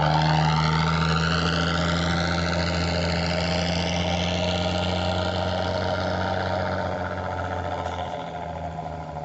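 Motor vehicle engine running steadily with a low hum, slowly fading as it draws away, with a sweeping hiss above it.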